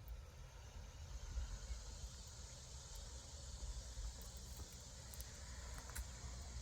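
Faint outdoor ambience: a steady high hiss of insects over a low rumble on the microphone, with a few faint ticks.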